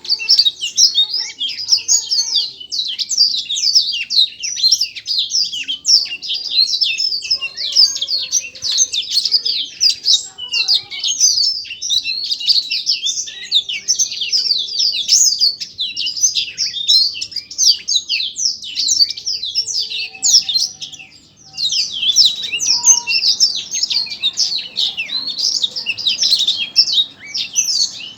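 A small songbird singing a fast, continuous chattering song of high chirps and trills, with a short break about three-quarters of the way through.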